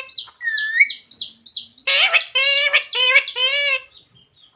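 Pet parrot calling: a run of short, sharp chirps with a rising whistle about half a second in, then four harsh, drawn-out squawks in quick succession in the middle of the stretch.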